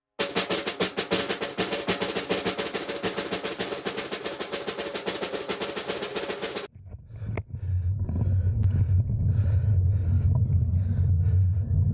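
A fast snare drum roll lasting about six and a half seconds, then a steady low rumble.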